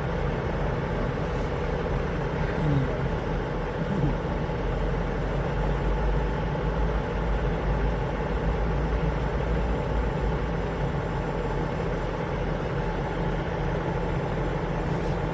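Truck engine idling steadily, a low even drone, with a brief squeak about three and four seconds in.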